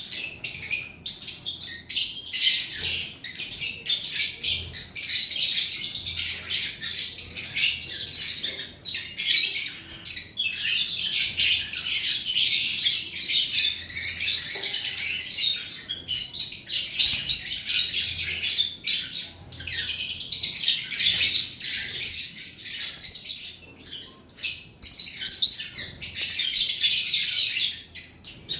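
Lovebird chattering: rapid, high-pitched chirps and squeaks, nearly continuous, with a few short pauses.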